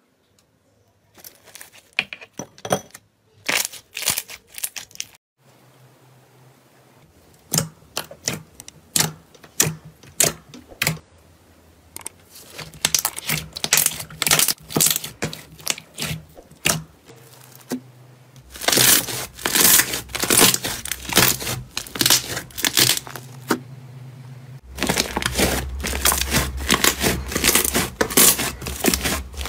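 Slime being squeezed, pressed and stretched by hand, giving runs of sharp crackling clicks and pops. Several separate takes follow one another, the densest and loudest crackling in the last part.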